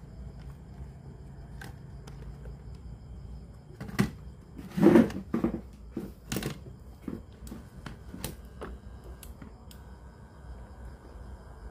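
Sharp clicks and knocks of hands handling a cassette radio's case and parts during repair. A cluster of loud knocks comes about four to seven seconds in, followed by lighter scattered ticks, over a steady low hum.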